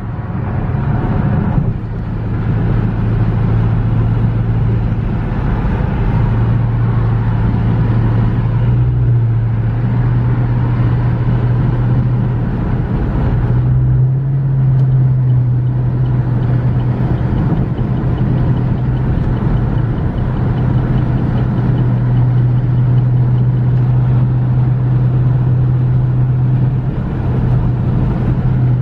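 Car driving on a highway: a steady low engine and road drone, stepping up slightly in pitch about halfway through.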